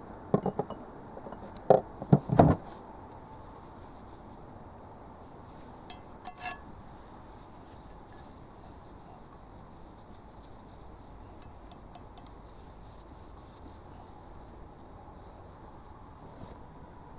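Sharp clinks and knocks of metal utensils against cookware: a few in the first three seconds and two more about six seconds in, over a faint steady hiss with light ticking.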